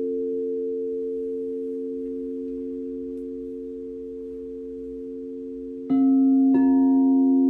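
Singing bowls ringing with long, slowly fading tones. Two bowls are struck about six seconds in, a fraction of a second apart, and each sets off a fresh, louder ring.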